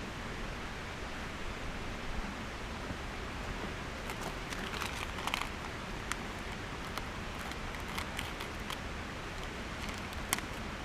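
A kettle heating on a Trangia camp stove: a steady soft hiss, with scattered light ticks and clicks starting about four seconds in.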